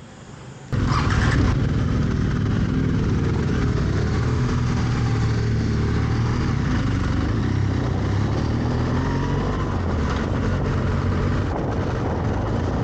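Motorcycle engine running while riding, with wind noise, its pitch drifting up and down slightly. It starts suddenly about a second in, after a quieter moment.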